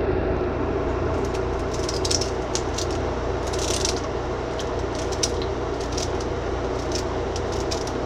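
Knife cutting up celery and onion on a cutting board: scattered light, crisp snaps and taps, with a longer crunch about three and a half seconds in, over a steady low hum.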